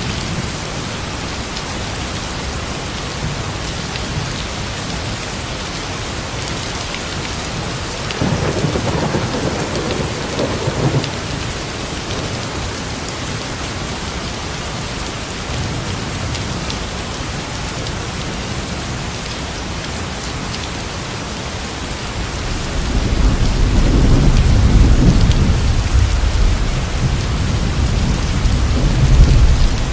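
Steady heavy rain with thunder: a short rumble about a third of the way in, then a long, loud low rumble of thunder over the last third.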